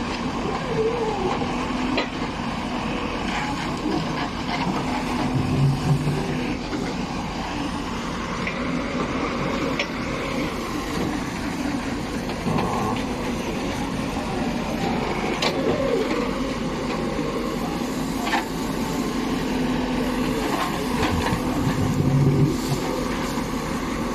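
A heavy vehicle engine running steadily, with scattered short clicks and knocks and two brief low swells, one about five seconds in and one near the end.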